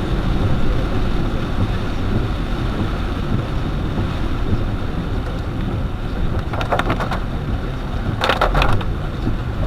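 A car driving in the rain, heard from inside: a steady low rumble of engine and tyres on wet road, with a rain and wind hiss over it. Two short bursts of rattling clicks come about two-thirds and nine-tenths of the way through.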